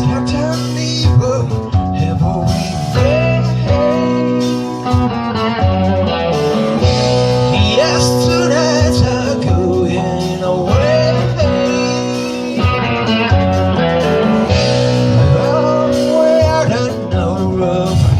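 Live blues-rock band playing an instrumental passage: a guitar line with bending, gliding notes over bass and drums.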